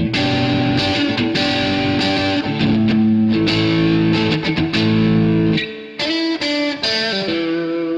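Electric guitar with distortion playing sustained chords, then breaking into a few short picked notes about five and a half seconds in and letting the last note ring.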